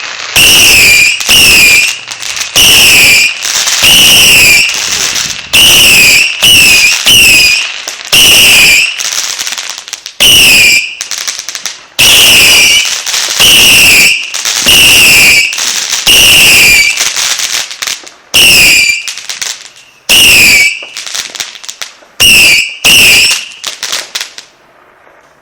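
A 100-shot consumer fireworks cake firing: about twenty loud shots in an uneven rhythm, roughly one a second, stopping near the end.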